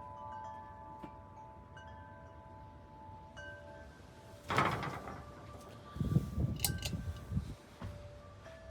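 Wind chimes ringing, several tones struck one after another and ringing on as they fade. A loud rush of noise sounds about halfway through, followed by a couple of seconds of low, uneven rumbling.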